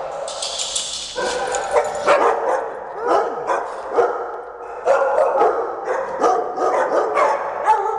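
Several large dogs barking, yipping and whining excitedly in greeting, with repeated calls throughout and a brief hiss in the first second.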